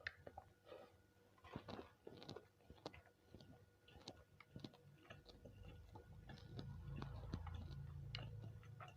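Close eating sounds of nasi kucing: chewing and biting with small crunches and wet mouth clicks. A low muffled rumble swells in from about halfway through.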